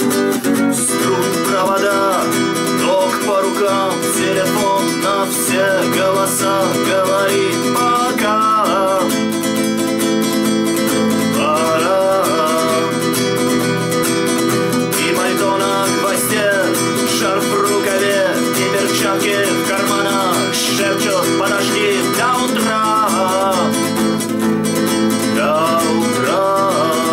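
Acoustic guitar strummed in a steady chord pattern, with a melody line of bending, wavering notes over it.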